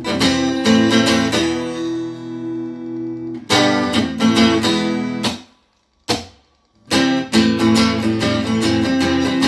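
Amplified guitar strummed in chords: a few ringing strums, then a sudden stop about five and a half seconds in broken by a single stab, and fast steady strumming starting again about seven seconds in.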